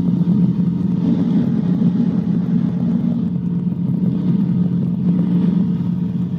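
Cabri G2 helicopter's piston engine and rotors running at takeoff power, a steady low drone heard through the cockpit intercom.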